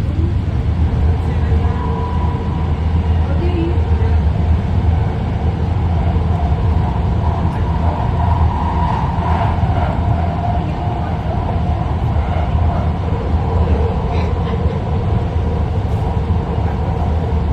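Interior of a BART train car running at speed between stations: a steady low rumble with faint steady tones above it.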